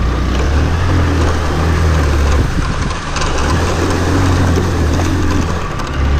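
Hero Xpulse 200's single-cylinder engine running steadily at low speed as the motorcycle crosses a shallow stream and rides onto loose stones, easing off briefly about three seconds in.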